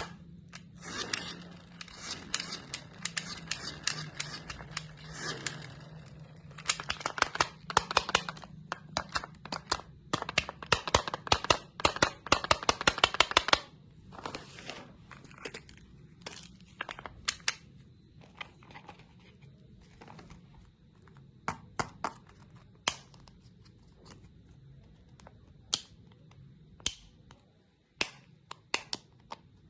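Hard candy being crunched and cracked up close: dense crackling and rapid sharp cracks for roughly the first half, then scattered single cracks.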